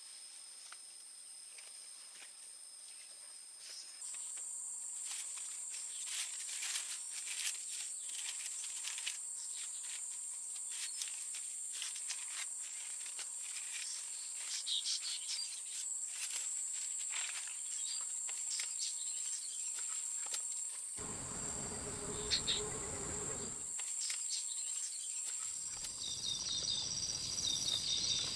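Insects trilling steadily at a high pitch, the trill growing louder about four seconds in, with scattered clicks and crackles. Near the end a rougher, fuller noise comes in twice for a few seconds.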